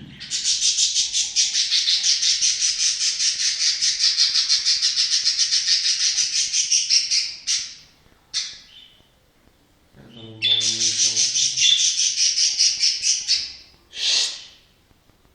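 Budgerigar chattering in a long, fast run of pulsed chirps, then after a pause of a few seconds a second shorter run and a last short burst. A brief low hum comes in under the start of the second run.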